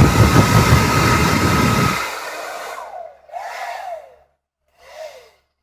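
Revlon hair dryer running, a loud rush of air with a low rumble and a steady whine. It is switched off about two seconds in and winds down. Two brief faint sounds follow.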